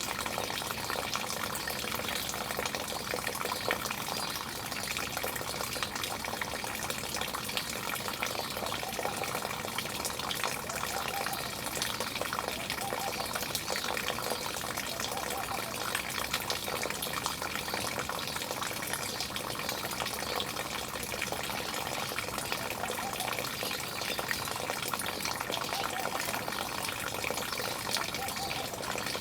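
Steady rushing and splashing of running water, like a small waterfall or fountain, unbroken throughout.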